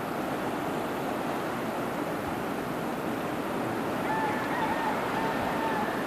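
Steady rushing noise, with a faint wavering high tone about four seconds in that lasts under two seconds.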